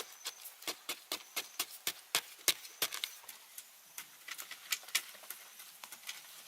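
A run of sharp taps and knocks, about three or four a second, thinning out after about three seconds.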